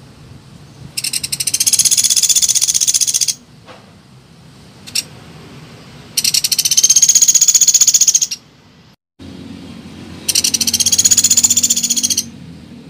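Pelatuk beras woodpecker calling: three rapid, high trilling call bursts of about two seconds each, with short pauses between them.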